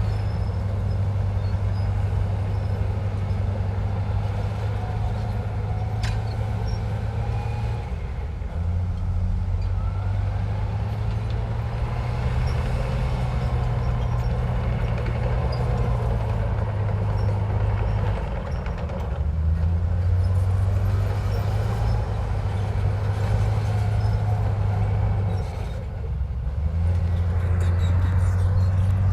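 Heavy diesel engine of earthmoving machinery running under load, a low drone that steps up and down in pitch several times as the load changes, with faint whining glides over it.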